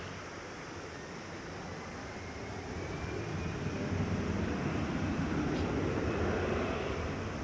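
Airbus A319 jet taking off, its engines at takeoff thrust as a low rumble that grows louder about three seconds in.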